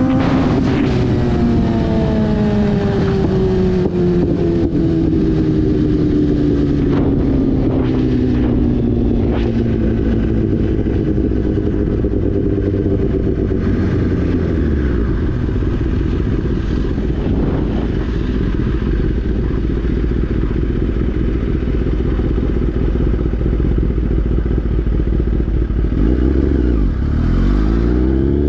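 2017 Kawasaki ZX-10R's inline-four engine heard from the rider's seat while riding. Its note falls slowly over the first dozen seconds and then holds steady. Near the end it climbs sharply as the bike accelerates again.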